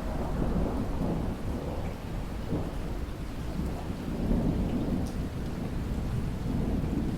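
Rolling thunder rumbling over steady rainfall; the rumble comes in at the start and swells again about four seconds in.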